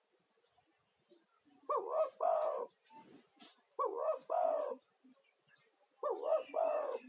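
Male spotted dove (tekukur) cooing: three calls about two seconds apart, each a quick double note run straight into a longer, lower coo.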